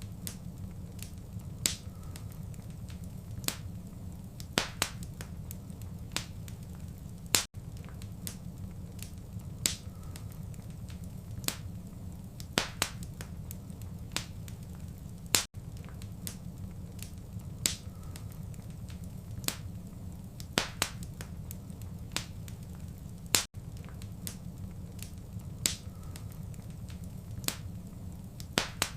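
Wood fire in a fireplace crackling: irregular sharp pops and snaps over a steady low rumble of the flames. The same few seconds of crackling repeat about every eight seconds, each repeat marked by a brief dip in the sound.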